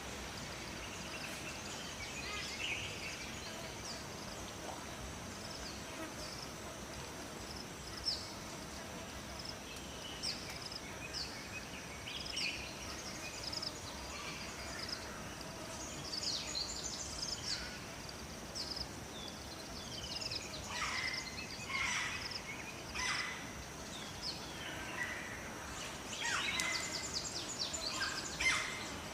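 Forest birds chirping and calling over a steady high insect drone and a low background hiss. The calls are sparse at first and grow busier in the second half, with quick falling notes.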